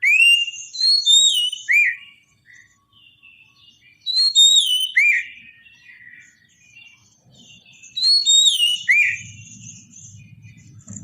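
Oriental magpie-robin singing: three loud phrases of clear whistled notes sweeping up and down, about four seconds apart, with softer twittering between them. A low rumble comes in near the end.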